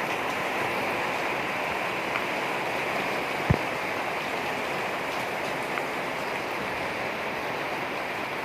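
Steady rain falling, an even hiss of water, with a single sharp thump about three and a half seconds in and a couple of faint ticks of drops.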